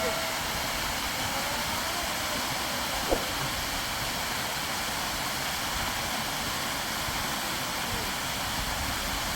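Steady rush of water, with a single sharp click about three seconds in.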